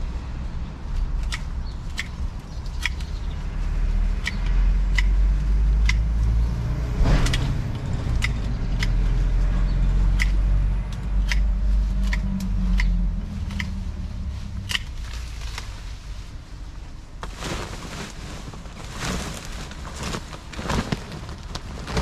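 Hand pruners snipping through shrub stems: a run of sharp, separate cuts about one every half second to a second, with a low rumble through the middle and branches rustling near the end.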